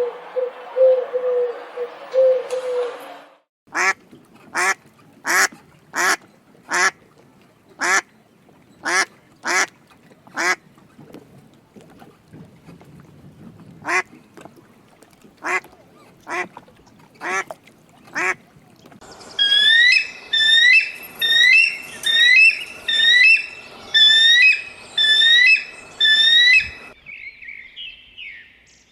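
A succession of bird calls: a short cooing at first, then a string of sharp single calls about one a second, and from about two-thirds of the way in a dense chorus of many high chirping calls overlapping.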